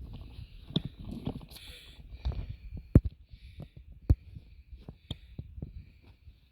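Irregular dull thumps and knocks close to the microphone, roughly one a second, the sharpest about three seconds in and again about four seconds in, over a faint high hiss that comes and goes.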